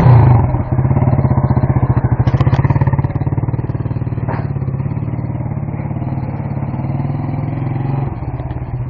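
Motorcycle engine running just after being started, a steady fast pulsing beat at low revs; it is loudest in the first few seconds, then settles a little quieter as the bike is moved to a new spot.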